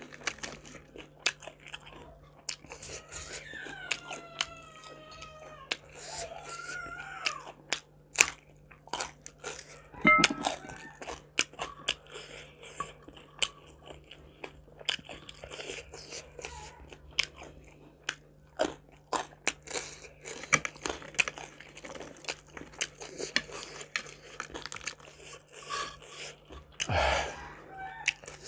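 Close-miked eating of crispy fried chicken by hand: crunching, chewing and wet mouth clicks and smacks, coming irregularly throughout. A steady low hum runs underneath, and a few brief gliding tones sound about three to seven seconds in.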